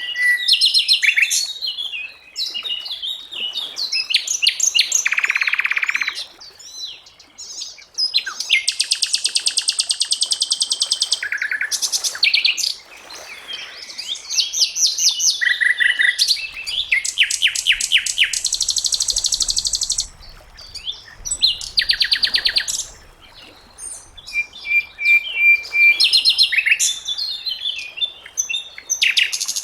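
Sikatan londo (a flycatcher) singing a varied song: clear steady whistled notes, fast trills and buzzy chattering phrases, delivered in bursts with short pauses between them.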